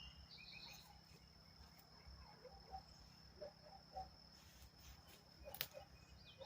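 Near silence: faint outdoor ambience with a steady high insect trill and a few faint bird chirps near the start. A single sharp click about five and a half seconds in.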